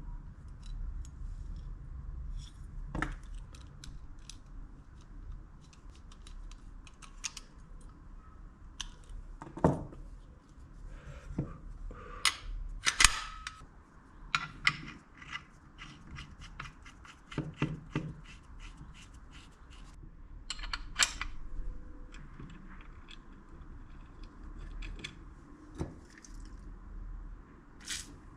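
Irregular clicks, taps and small knocks of tools and metal parts being handled on a workbench, with a faint low hum under them; the strikes come thickest and loudest in the middle of the stretch.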